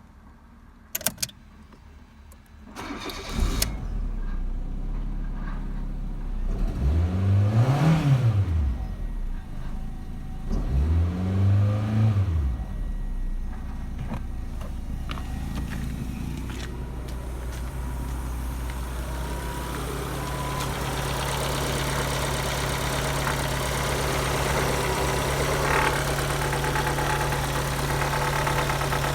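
Fiat Punto 2's 1.2-litre 8-valve four-cylinder petrol engine (188A5000) starting about three seconds in after a couple of clicks, then idling. It is revved twice, each time rising and falling back, and settles into a steady idle.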